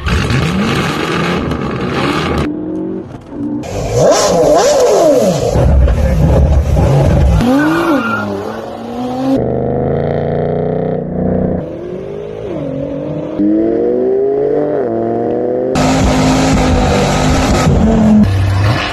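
Car engine and exhaust revving and running hard in a string of edited clips, the engine note climbing and falling repeatedly, with abrupt cuts between clips.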